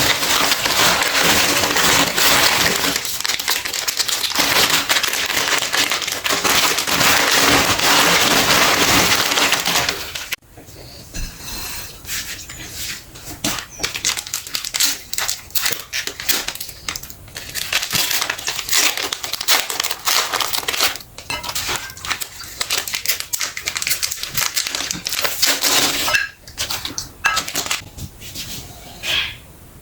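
Electric meat grinder running and crushing soft and crunchy things, a dense crackling over a steady motor hum. About ten seconds in it cuts off sharply, and quieter, irregular crackling and squishing follows.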